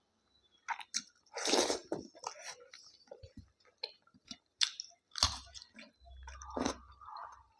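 A person chewing food close to the microphone, with irregular wet mouth clicks and smacks and a louder, longer crunchy bite about a second and a half in.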